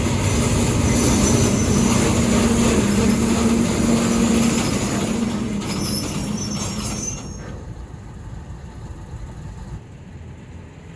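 Container freight train behind a D19E diesel-electric locomotive running through a curve: a loud rail rumble with a steady engine tone and high wheel squeal. The sound drops off sharply about seven seconds in, leaving a faint rumble.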